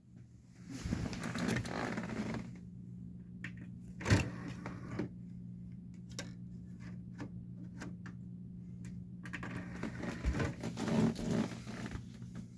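A steady electrical hum with two stretches of rustling, mechanical noise, one near the start and one near the end, and scattered sharp clicks between them, the loudest about four seconds in.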